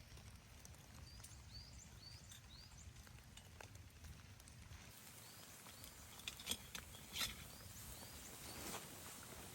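Short, high chirps repeated in quick runs, typical of a small bird calling, over a faint low rumble of wind. A few sharp crunches or clicks come about two-thirds of the way through.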